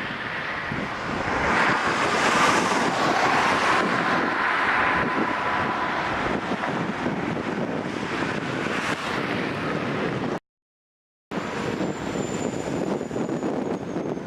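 Wind buffeting the microphone in a steady rush of noise, with a faint tone sliding slowly downward during the first half. The sound cuts out completely for about a second, about ten seconds in, then the wind noise resumes.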